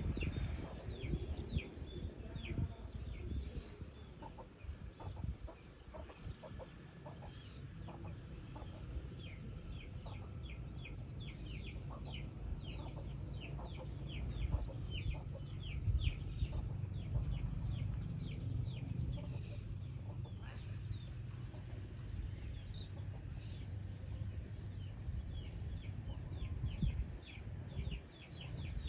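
Birds calling: many short, high calls in quick runs, over a steady low rumble.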